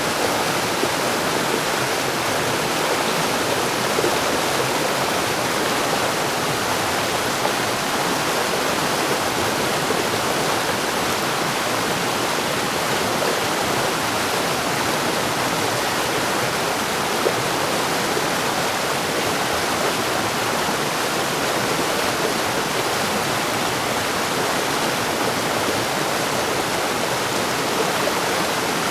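Mountain stream running steadily over rocks, a continuous rushing of water with no breaks.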